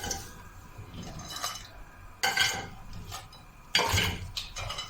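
Raw crabs being put into a metal cooking pot, their shells clattering and clinking against the pot several times.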